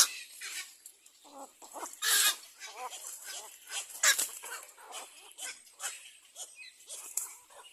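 Little egret chicks calling at the nest: a run of short, harsh, rasping calls, with louder ones about two and four seconds in.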